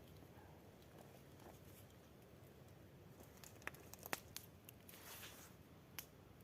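Near silence broken by a few faint sharp clicks, bunched together a little past halfway, with a short soft rustle and one last click near the end.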